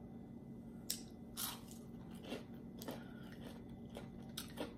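A person chewing food with closed mouth, heard close up: faint, scattered soft crunches, about five over a few seconds.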